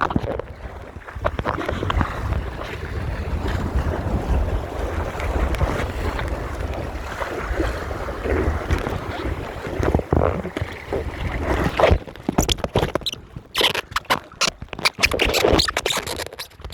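Wind buffeting the microphone and water rushing along the hull of a Topper sailing dinghy under way. From about twelve seconds in, the sound turns choppy, with a run of sharp, short splashy noises.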